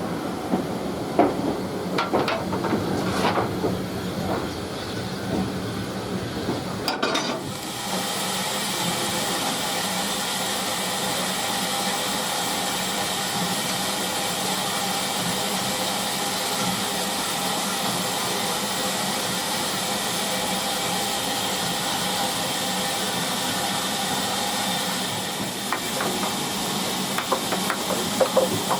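Steam locomotive hissing steadily as steam escapes, with a few metallic clanks in the first seconds and again near the end. The sound changes abruptly about seven seconds in, to an even hiss.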